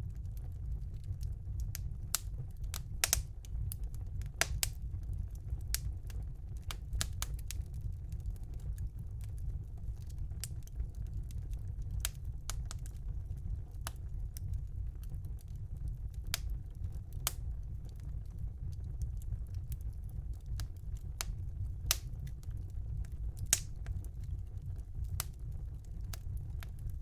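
Wood fire burning in a fireplace: irregular sharp crackles and pops, a few louder than the rest, over a steady low rumble of the flames.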